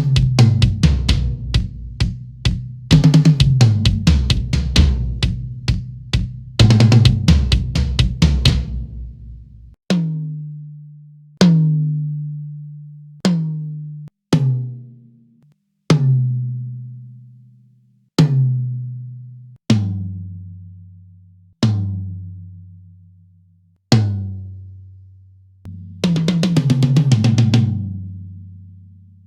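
Raw close-miked toms of a Yamaha Recording Custom drum kit. First a fast fill runs down the toms, then each tom is struck alone three times and left to ring out, from the highest tom to the lowest. Another fill comes near the end.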